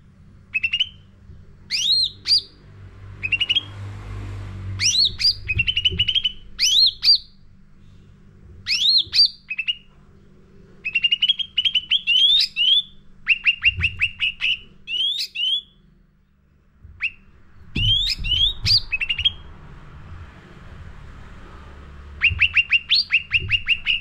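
Cucak ranting singing a busy, varied song of sharp sweeping chirps and quick runs of rapidly repeated short notes, over a low steady hum.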